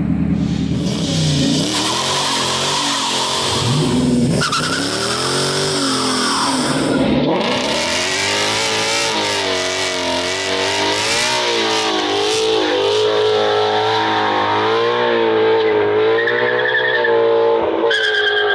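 2016 Ford Mustang GT's 5.0 Coyote V8 through a Roush cat-back exhaust, revved up and down several times, then held at a wavering, slowly climbing engine speed.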